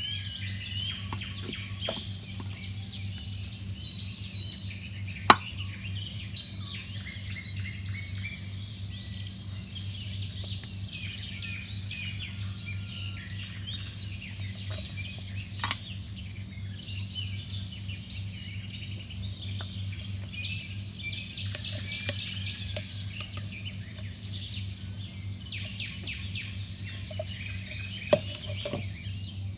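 Many small birds chirping continuously over a steady low hum, with a few sharp clicks, the loudest about five seconds in.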